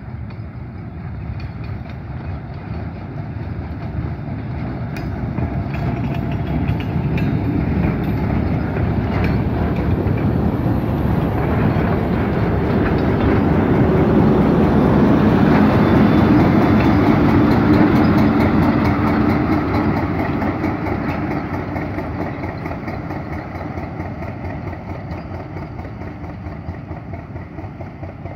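A diesel work train passing close by: wheels rolling on the rails and the GE U12 diesel-electric locomotive's engine running. The sound swells as the train approaches, is loudest about halfway through as the cars and locomotive go by, then fades as the train moves away.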